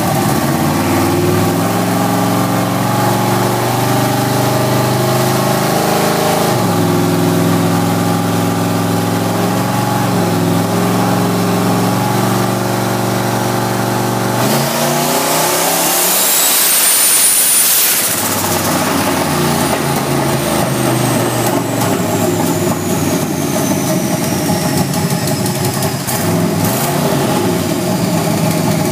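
Turbocharged 347 stroker small-block Ford V8 in a Mustang, running steadily, then revved hard about halfway through with a high turbo whistle rising as it spools. Afterwards it runs rougher and hissier while the whistle slowly falls away, fitting the blown exhaust gasket from this tuning run.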